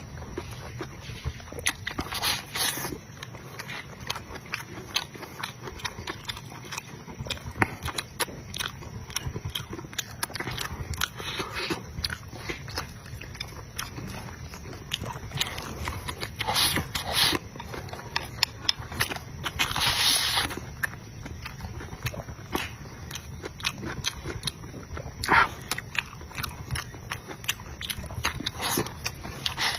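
A person chewing food close to the microphone: irregular wet smacking and clicking of the mouth, with a few louder bursts now and then.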